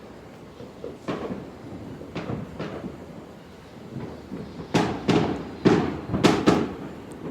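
Fireworks going off across the neighbourhood: mostly bomb-type explosions rather than display shells, about nine separate bangs. A few are spaced out at first, then a closer, louder run comes near the end.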